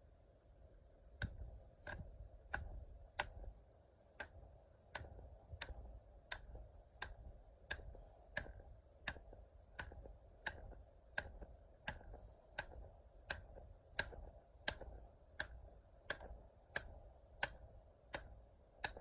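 A steady series of sharp ticks, about three every two seconds, starting about a second in.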